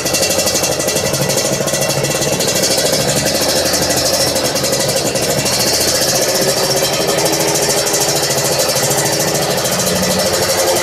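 Kawasaki Ninja 150 two-stroke engine idling through an aftermarket racing exhaust, with a steady rapid exhaust pulse and a slight wavering in pitch.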